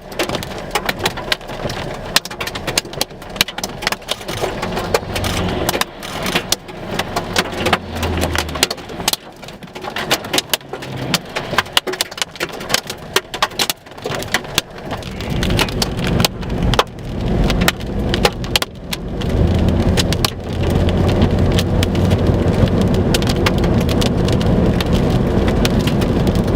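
Rain and hail pelting a vehicle's roof and windshield as a dense patter of sharp ticks. It grows heavier and steadier about fifteen seconds in, with a low rumble underneath.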